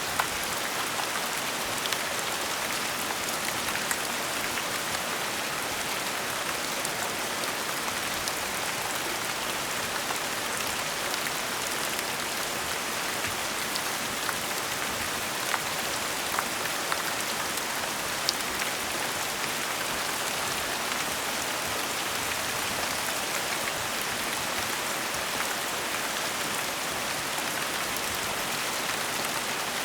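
Gentle steady rain: an even hiss of rainfall with the odd sharper tap of a single drop here and there.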